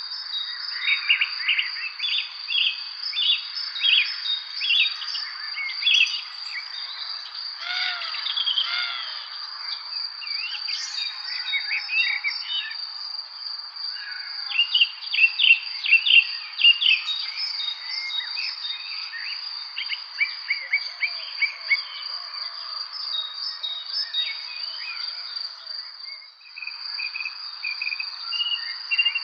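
Evening spring chorus of songbirds chirping and singing in quick, overlapping phrases, busiest around the middle. A steady high-pitched insect trill runs beneath.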